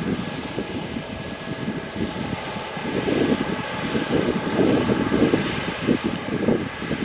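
Airbus A350-900's Rolls-Royce Trent XWB jet engines at takeoff power: a loud, uneven, crackling rumble with a faint steady whine above it, swelling about halfway through.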